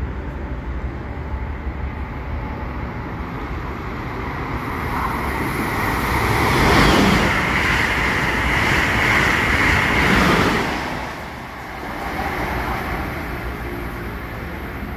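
A passenger train passing close by at speed. The rumble and rush of its wheels on the rails build from about four seconds in, are loudest for about four seconds as the cars go by, then fall away.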